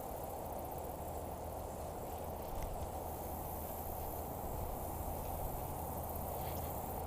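Steady outdoor ambience: insects trilling in a high, fast-pulsing band over a constant low rushing noise.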